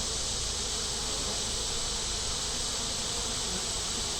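Steady buzzing of a honey bee colony around an opened hive, an even drone with no breaks.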